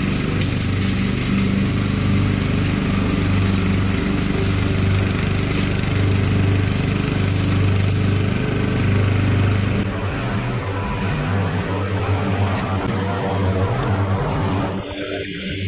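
Riding lawn mower engine running steadily while mowing, its low hum easing somewhat about two-thirds of the way through.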